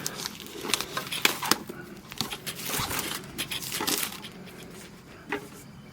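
Plastic shrink-wrap being crinkled and pulled off by hand, a run of quick crackles and small clicks that thins out for the last second or two.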